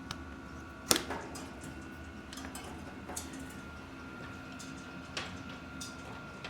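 Scattered clicks and light knocks of hands and tools working on a bicycle wheel and tire, with one sharper knock about a second in. A faint steady hum runs underneath.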